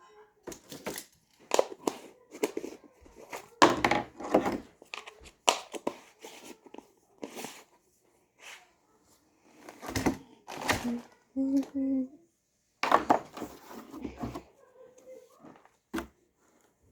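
Close handling noises: repeated crinkling, rubbing and knocks at irregular intervals, with a couple of short hummed or voiced sounds about eleven seconds in.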